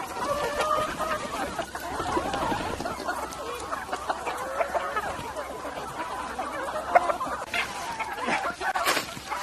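A flock of free-range chickens clucking, many short calls overlapping, with a couple of sharp knocks about seven and nine seconds in.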